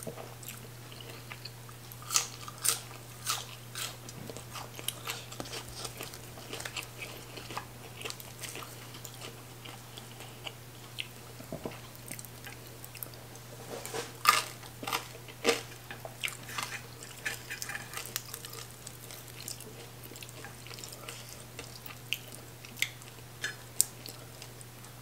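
Close-miked eating: chewing with sharp wet mouth clicks, louder in a cluster a couple of seconds in and again around the middle, over a low steady hum.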